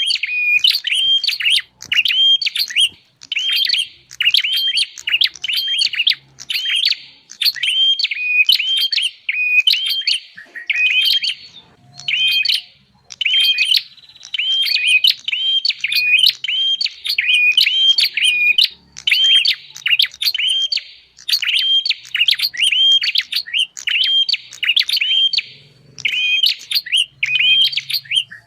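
Prenjak (prinia) calls played as a bird lure: sharp chirping notes repeated about twice a second in long runs with brief gaps.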